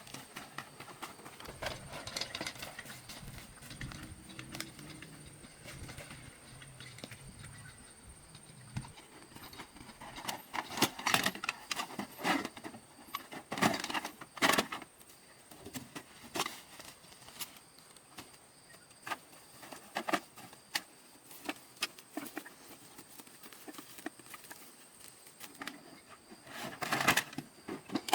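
Irregular clicks, knocks and light clatter of hard objects being handled, thickest in a run about ten to fifteen seconds in and again near the end, over a steady thin high-pitched tone.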